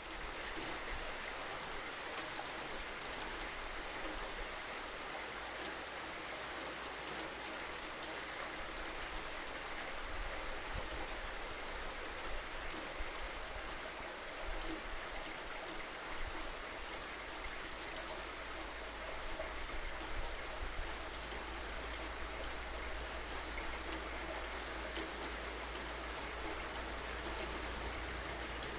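Steady rain falling, a continuous even hiss with scattered drops pattering on surfaces.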